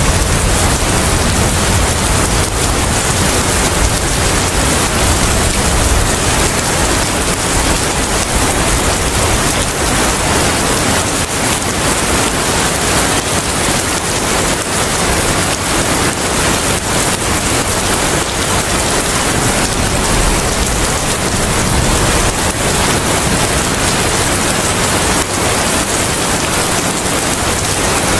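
Steady heavy rain: a dense, even hiss, with a low rumble in the first few seconds and again briefly about two-thirds of the way through.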